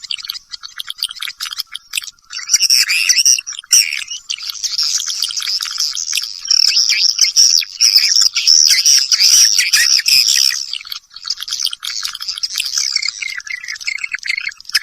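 Recorded swiftlet calls: a dense stream of rapid, high twittering chirps, busiest and loudest in the middle, with no low sound at all. It is a swiftlet-house lure call, played to attract swiftlets to roost and nest.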